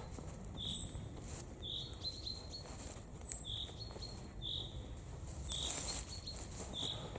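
Small bird calling: short high chirps, some falling in pitch, repeating every second or two over a steady low outdoor background noise.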